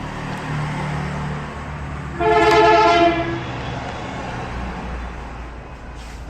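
A vehicle horn sounds once for about a second, a steady flat-pitched blare, over a steady low engine hum.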